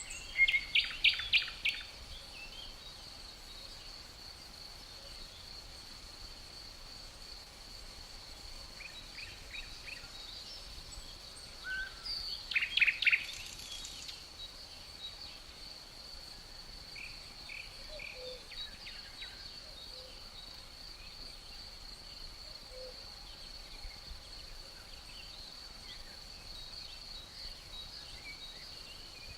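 Songbirds calling in quick bursts of rapid chirping notes, loudest near the start and again about twelve seconds in, with fainter chirps between. A steady high-pitched insect trill, like crickets, runs underneath throughout.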